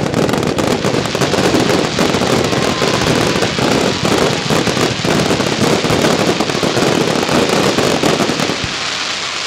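Fireworks crackling: a loud, dense run of rapid pops that thins out near the end.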